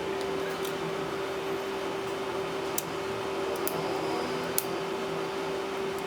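A steady electrical hum under room noise, with three light clicks about a third, halfway and three quarters of the way through, from small hand tools working on the tablet as it is taken apart.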